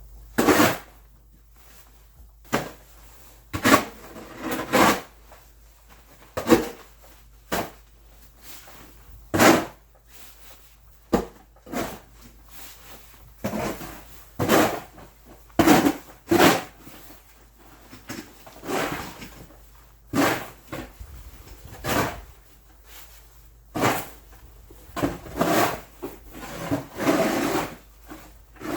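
Snow shovel scraping and pushing snow in repeated short strokes, roughly one a second at an uneven pace.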